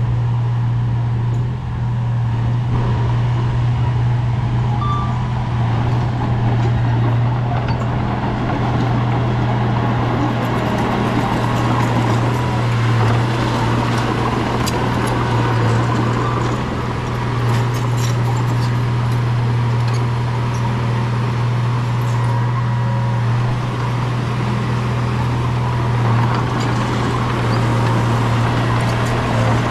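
Bulldozer's diesel engine running steadily with a deep, constant hum. Light clicking and rattling comes in from about ten seconds in.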